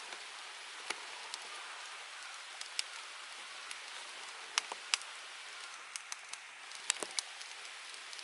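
Small wood fire burning in a UNIFLAME Nature Stove: a steady hiss with irregular sharp crackles and pops, a few louder ones about halfway through and near the end.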